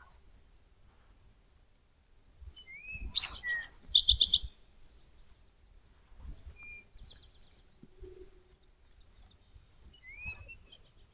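A songbird singing: a short phrase that opens with an upward slur and runs into a fast string of high notes, heard twice several seconds apart, with a quieter burst of notes in between.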